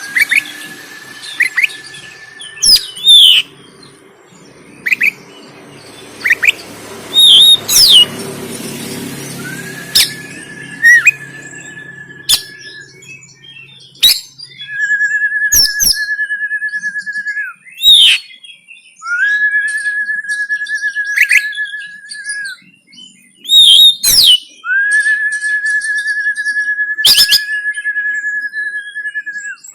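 Oriental magpie-robin (kacer) singing: loud, sharp, short whistled notes and clicks between long, steady, slightly warbling whistles held for two to three seconds, repeated about five times.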